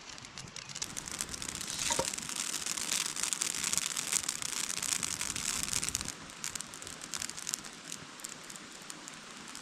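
Dry bush twigs used as kindling crackling and hissing as they catch fire. The dense crackle dies down about six seconds in, leaving a faint hiss: the kindling burning out rather than catching properly.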